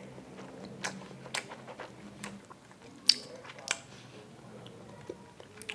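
Person chewing a mouthful of bakso (Indonesian meatballs) with the mouth closed: wet mouth clicks every half second or so, the loudest about three seconds in.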